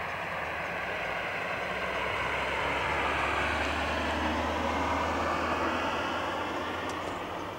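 Train passing at a distance: a low steady engine drone under a wide rumble of wheels on rails, swelling to its loudest around the middle and then easing off.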